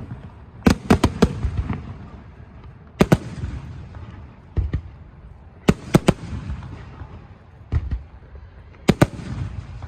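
Aerial firework shells bursting: irregular sharp bangs, often two or three close together, every second or two, with a low rolling rumble between them.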